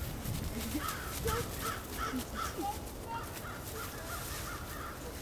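A bird calling in two quick runs of short repeated notes, about four a second, over the crackle of footsteps through dry fallen leaves.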